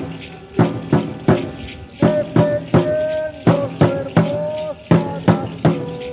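Aztec dance music: a drum beaten in a quick, steady rhythm, about three strokes a second, with rattles shaking along and a held pitched line over the beat.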